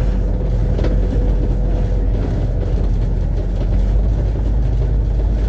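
Double-decker bus running along the road, heard from inside: a steady low rumble of engine and road noise, with a faint steady whine and a light knock about a second in.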